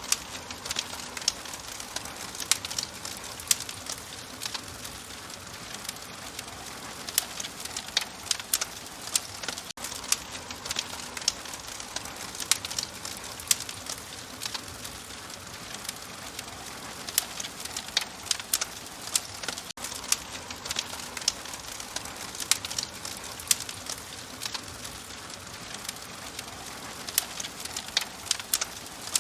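Wood fire crackling in a hearth: frequent sharp pops and snaps at irregular intervals over a steady soft hiss.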